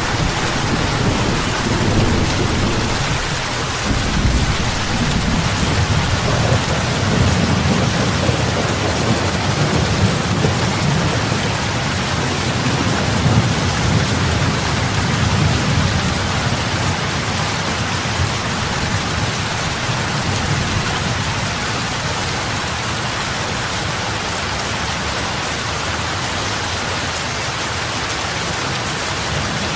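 Steady rain falling onto lake water, a dense hiss of drops striking the surface. A low rumble runs under it through the first half and fades away after about seventeen seconds.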